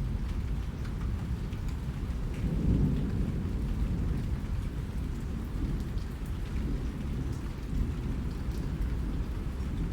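Steady rain with scattered individual drops ticking, over a continuous low rumble that swells briefly about two and a half seconds in.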